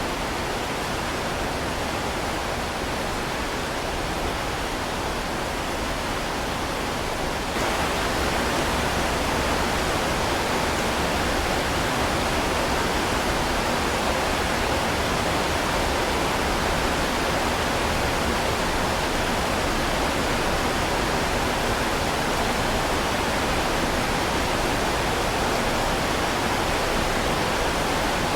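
Heavy rain falling steadily, which turns abruptly louder and brighter about seven seconds in and holds there.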